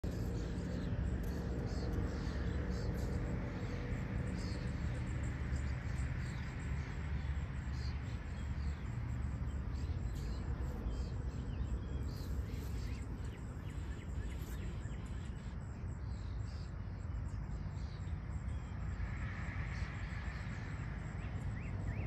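Outdoor garden ambience: small birds chirping now and then over a steady low rumble.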